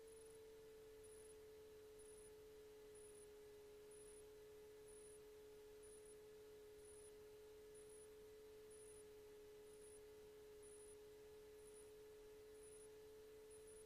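Near silence on the aircraft's intercom audio feed, with only a faint steady tone that drifts slightly lower in pitch and very faint high ticks about once a second.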